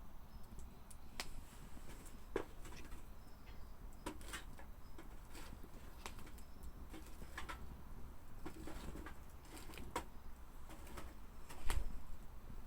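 Wood fire crackling, with irregular sharp pops and snaps from the burning wood over a low rumble, and a dull thump near the end.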